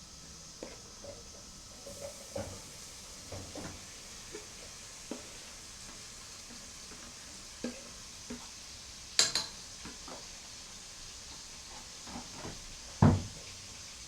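A metal utensil clinking and knocking against a cooking pot as chicken pieces are turned while browning, over a faint steady sizzle. A sharp metallic clack comes about nine seconds in, and a heavy knock near the end is the loudest sound.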